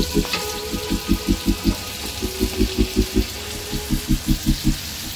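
Shrimp and vegetables sizzling as they stir-fry in a nonstick pan, a steady hiss. Over it runs background music with a quick, even pulsing beat, about six beats a second, which is the loudest sound.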